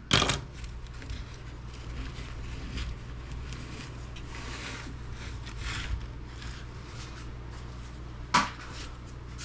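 Hands handling small electronic scrap parts on a workbench. There is a sharp click right at the start, then faint rubbing and small taps, and a louder knock about eight seconds in, all over a low steady hum.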